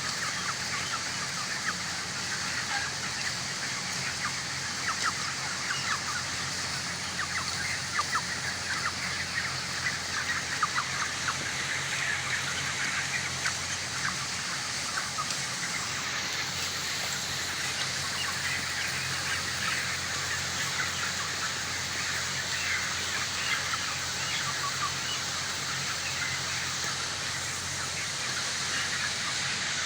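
A large flock of young broiler chickens calling continuously, many short overlapping cheeps and clucks, over a steady low hum.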